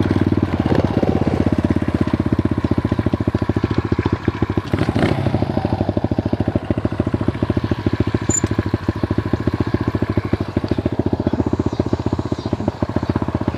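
Dirt bike engine running steadily, with fast, even firing pulses.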